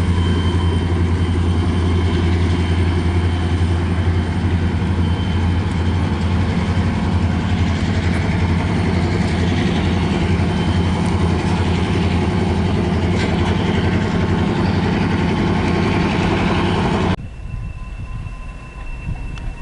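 A train passing close by: the steady low drone of a diesel locomotive engine over the rumble and rattle of the train on the rails. About 17 seconds in, the sound cuts off abruptly to a much quieter background.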